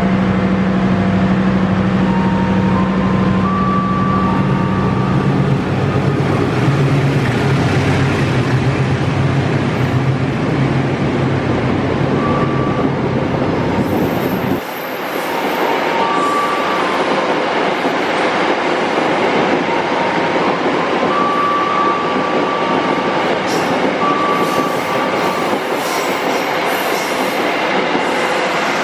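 A CC 206 diesel-electric locomotive's engine running with a steady low hum that drops in pitch as it comes past. After a sudden change about halfway, passenger coaches roll by with rumbling wheels, short squeals and clicks over the rail joints.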